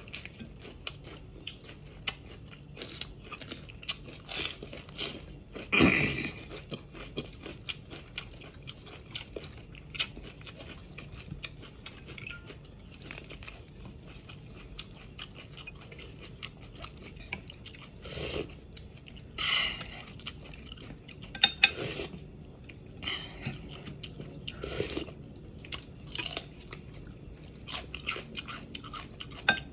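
Close-up eating of raw vegetables: crisp bites and chewing of raw green bell pepper, with many small crunches and louder bites about six seconds in and several more between about 18 and 25 seconds.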